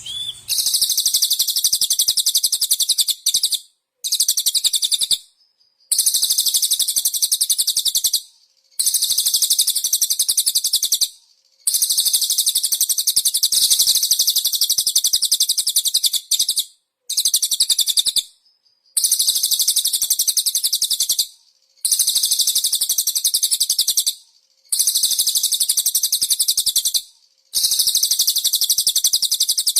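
Songbird singing rapid, very high-pitched trills in about ten bouts of a few seconds each, broken by short pauses, played as a masteran recording for training caged white-rumped shamas.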